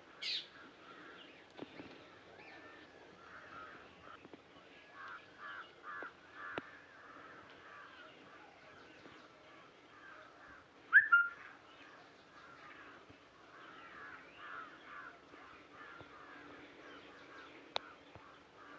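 Birds calling and chattering, with many short calls throughout, a sharp high call at the very start and one much louder call about eleven seconds in.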